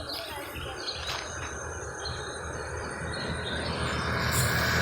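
Rural outdoor ambience of insects and birds chirping, then a passing vehicle's engine growing louder near the end.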